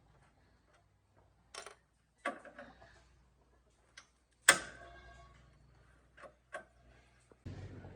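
A handful of separate knocks and clinks, like tools set down or struck on metal parts. The loudest comes about halfway through, a sharp metallic clank that rings briefly.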